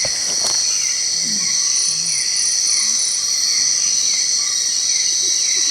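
Dense rainforest insect chorus: a loud, steady, high-pitched drone, with a falling chirp repeating a couple of times a second and a short run of high pulsed notes about two seconds in.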